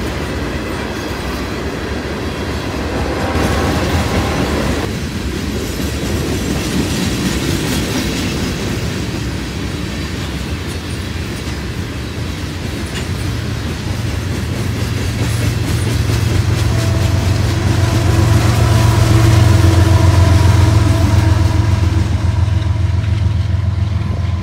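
Freight train of hopper cars rolling past, their steel wheels running over the rails. A low rumble builds through the second half and is loudest a few seconds before the end.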